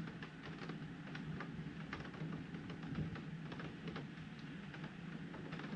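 Raindrops ticking irregularly against a window pane, over a steady low hum.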